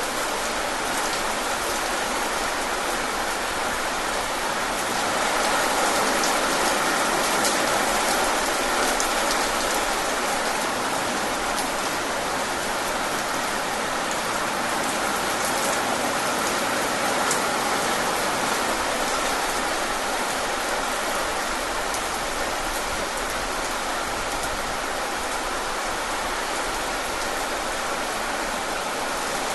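Steady rain falling on a surface, with individual drops ticking, a little heavier about five seconds in.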